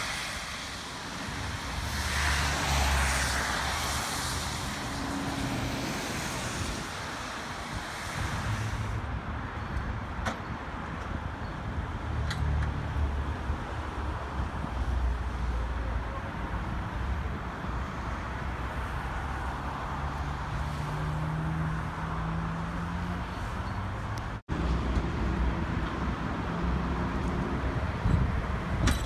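Vehicle engines running on a street, with wind buffeting the microphone for the first several seconds; past the middle one engine's note rises for a few seconds.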